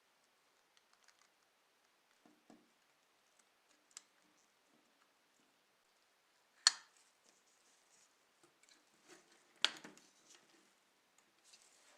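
Quiet handling sounds: scattered faint clicks and taps, with two sharp, much louder clicks about three seconds apart, the first a little past the middle.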